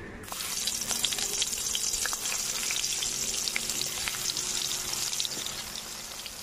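Round eggplant slices rubbed with turmeric and salt sizzling as they go into hot mustard oil in a karahi. The sizzle starts suddenly a moment in and carries on with scattered sharp pops, easing slightly near the end.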